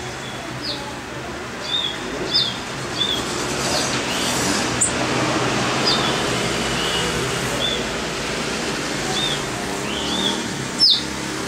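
Birds calling with short, high chirps, some arched and some sharply falling, every second or so, with one louder chirp near the end, over a steady background hum.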